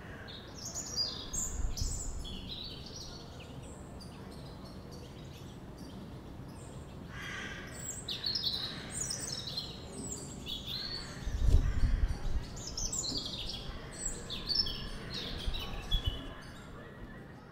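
Birds chirping in quick runs of falling high notes, a short burst near the start and then almost without pause from about halfway on, over a steady faint hiss. Low rumbles come in about two seconds in and again around twelve seconds.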